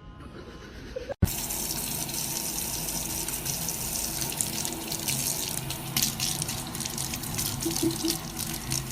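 Water running from a tap into a sink, a steady splashing that starts abruptly about a second in.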